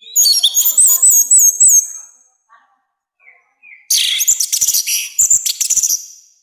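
Orange-headed thrush (anis merah) singing loudly in two phrases of about two seconds each: the first is quick, wavering, high whistled notes, the second, about four seconds in, is denser and harsher.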